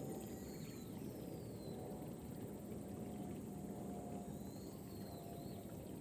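Light rain pattering steadily over flooded rice paddies, with birds giving short arched calls now and then and a high steady insect trill that stops near the end.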